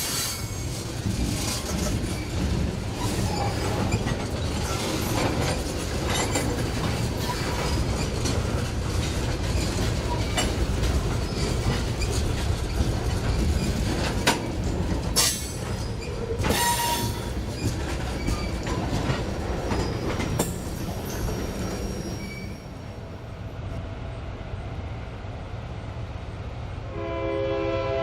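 Train rolling past with a steady low rumble and frequent clicks from wheels over rail joints. A multi-note locomotive horn begins sounding near the end.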